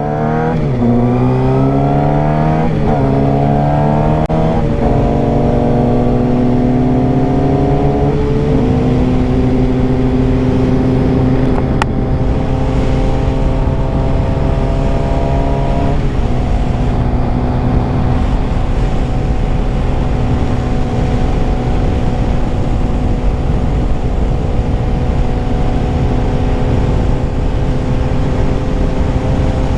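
Suzuki GSX-R 600's inline-four engine accelerating through the gears, its pitch climbing and dropping sharply at each of about four upshifts, then cruising at a steady pitch, with wind rushing over the helmet-mounted microphone.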